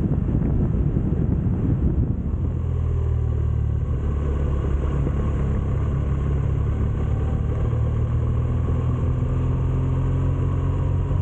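BMW motorcycle engine running, with wind rushing over the microphone for about the first two seconds; then the wind drops away and the engine settles into a steady hum whose pitch creeps up a little near the end.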